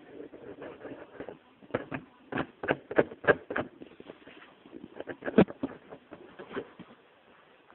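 A cat moving about in a box: irregular scratching, rustling and knocks against the box walls, thickest in the middle and dying away near the end.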